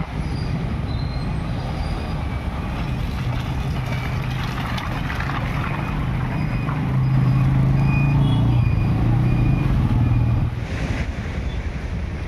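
Motor vehicle engine running steadily with road noise, growing louder about seven seconds in and easing off about ten and a half seconds in.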